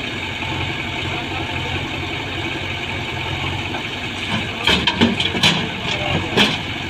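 Heavy diesel engine running steadily at idle, with a short run of sharp knocks and clatter from about four and a half to six and a half seconds in.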